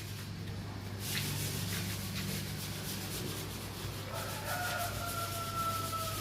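Steady low hum of running machinery over a noisy haze that grows louder about a second in. From about four seconds in, a long, slightly falling high tone sounds over it for about two seconds.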